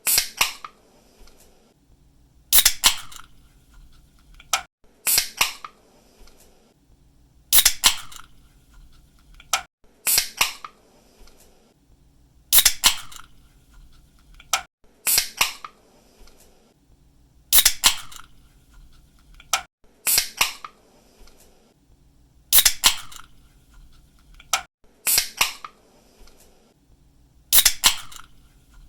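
Aluminium drink can being cracked open by its pull tab, again and again: each time a light click, then a sharp snap with a short hiss, about every two and a half seconds.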